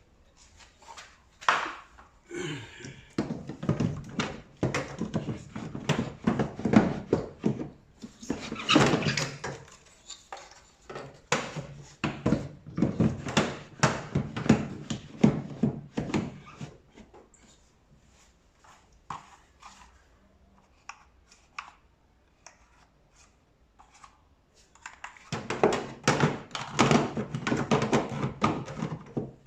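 Parts of an LG tumble dryer being handled and fitted together: rapid runs of knocks, clunks and clatters. They ease to scattered light clicks for several seconds, then pick up again near the end.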